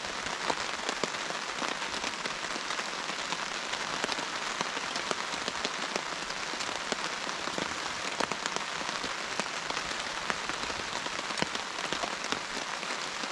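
Steady rain falling on a tarp shelter overhead, with the sharp hits of single drops standing out against the even hiss.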